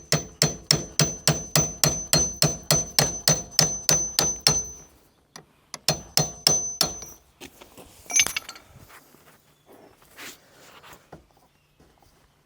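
Hammer striking metal in a fast steady run, about four blows a second with a ringing metallic tone, pausing briefly and then hitting a few more times; near the end comes a short metallic jingle and quieter handling of tools.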